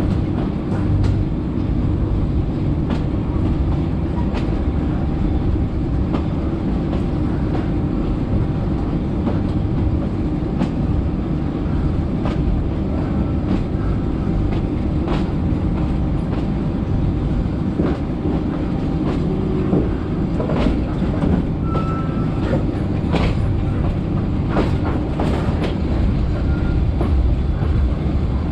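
Passenger train running along the track: a steady heavy rumble with irregular clicks and knocks of the wheels over the rail joints.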